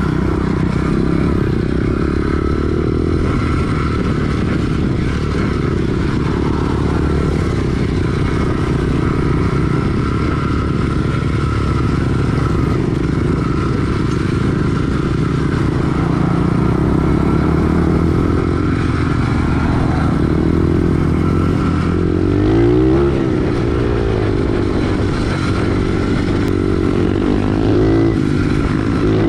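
SSR 110 pit bike's small single-cylinder four-stroke engine running under way, the revs rising and falling, with a sharp rev-up about 23 seconds in and another near the end.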